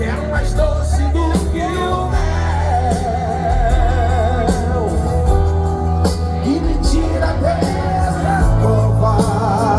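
Live Brazilian gospel worship music: a full band with bass and drums under a lead voice that holds long notes with a wide vibrato.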